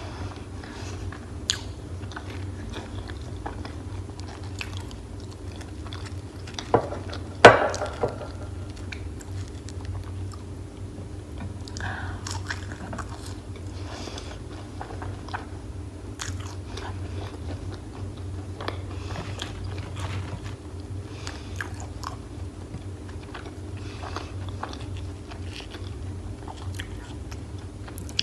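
Close-miked chewing and crunching of crispy fried food, with small wet mouth clicks throughout over a steady low hum. Two loud sharp crunches come about a quarter of the way in.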